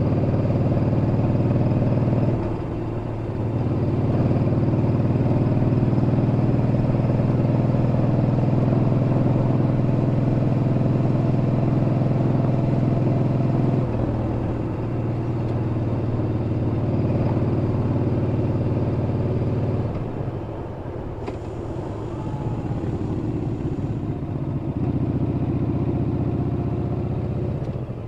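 Yamaha Bolt's air-cooled V-twin engine running as the motorcycle rides along. The throttle eases off briefly a couple of times, and there is a longer lull around twenty seconds in before it pulls again.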